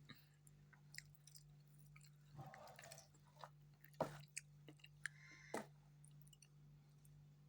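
Faint chewing: a child's mouth clicking and smacking on food in scattered soft clicks, over a low steady hum.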